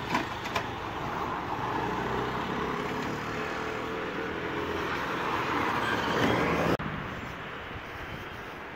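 A motor vehicle's engine running close by on the road, growing louder and then cutting off suddenly about seven seconds in, leaving quieter outdoor traffic noise.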